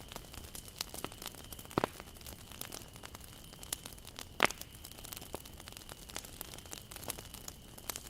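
Wood fire burning, its logs crackling with irregular sharp snaps over a low hiss; two louder pops stand out, about two seconds and four and a half seconds in.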